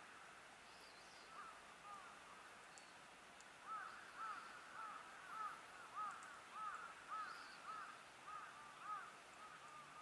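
Faint bird calls: a run of short, arched notes repeated about twice a second, sparse at first and thickest from about four to nine seconds in.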